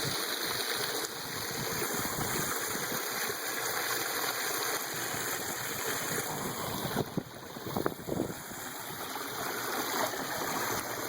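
Small spring-fed waterfall running into a stream: a steady rush of falling and flowing water, with a few short sharp sounds about seven to eight seconds in.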